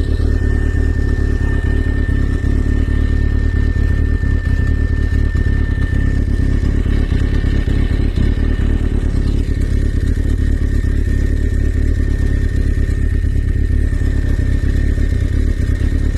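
Off-road vehicle engine running steadily close by, a dense even rumble with no revving, and a thin high whine over it that fades about six seconds in.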